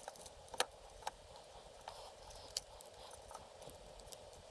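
Faint, sharp clicks and taps of small model-locomotive parts and wiring being handled, a few distinct ones over a steady low hiss.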